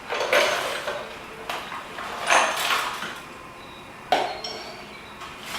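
Hard objects being handled and knocked together while rummaging: four sharp knocks and clinks, some with a brief metallic ring.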